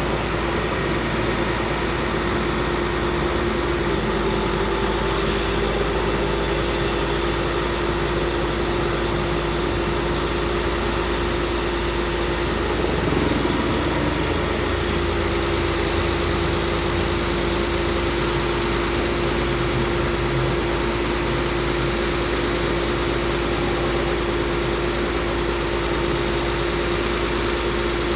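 Truck's Caterpillar C7 diesel engine idling steadily, with a constant tone running over it.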